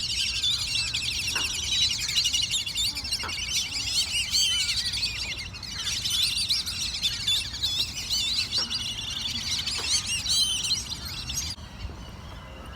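Many small birds chirping and trilling at once, a dense overlapping chorus of rapid high calls; it falls away suddenly near the end.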